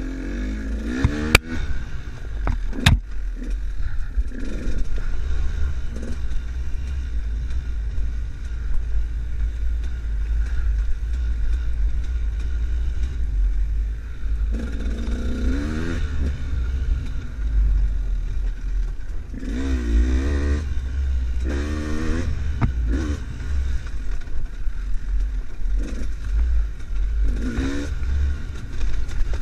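Enduro motorcycle engine under way off-road, its revs rising and falling in several bursts over a heavy low rumble, with two sharp knocks in the first few seconds.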